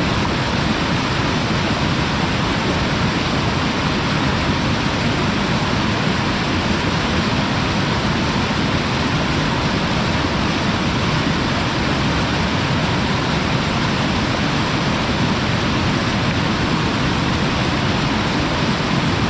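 Waterfall, heard from its lip where the water pours over: a steady, even rush of falling water with no let-up or change.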